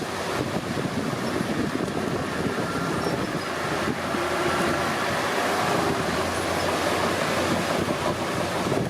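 Komatsu D31P crawler bulldozer at work, its diesel engine and tracks running steadily, with a faint high whine between about three and six seconds in.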